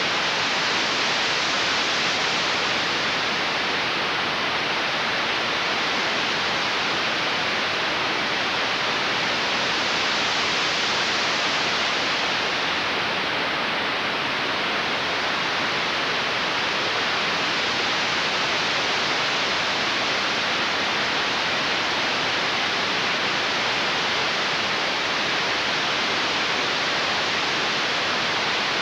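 Steady, even static hiss with nothing else in it.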